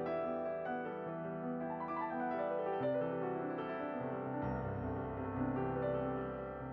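Soft background piano music, sustained notes and chords changing every second or so.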